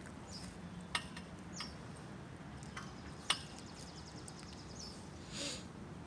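Small birds chirping now and then, with a quick high trill about halfway through. Two sharp clicks and a brief rustle near the end.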